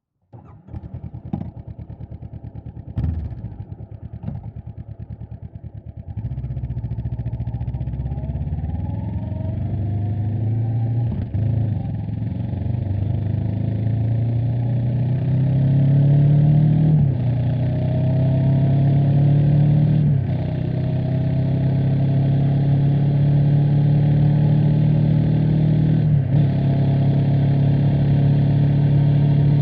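Honda CB500X's 471 cc parallel-twin engine idling for about six seconds, with a clunk about three seconds in, then pulling away and accelerating through the gears. The revs climb and drop back at each of four upshifts.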